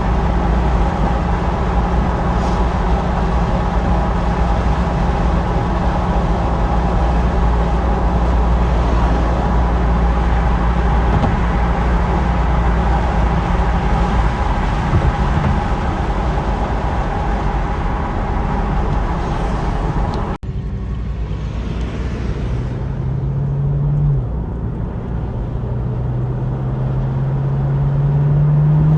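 2012 Chevrolet Camaro SS's 6.2-litre V8 running at a steady cruise under heavy road rumble. After a sudden cut about two-thirds of the way through, the engine pulls away with its pitch rising, dropping at a gear change and rising again as it accelerates.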